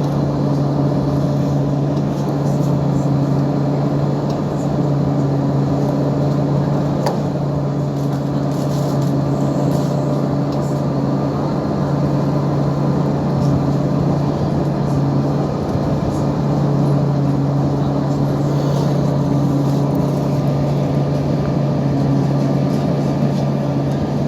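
A ferry's Scania diesel engine running at a constant speed: a steady low drone that holds its pitch.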